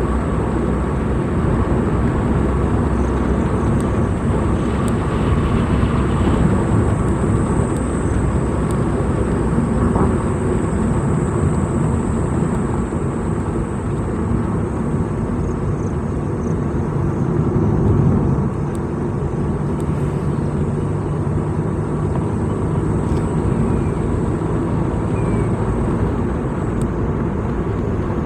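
Vehicle driving along a road: steady engine and tyre noise with no break, swelling briefly about eighteen seconds in.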